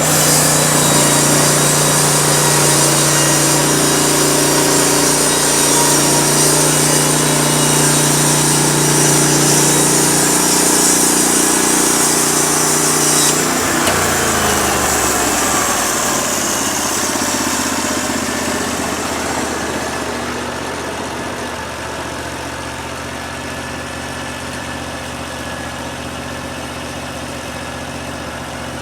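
Norwood LumberMate LM29 band sawmill's gas engine running steadily. About thirteen seconds in, its pitch drops, and it runs quieter through the second half.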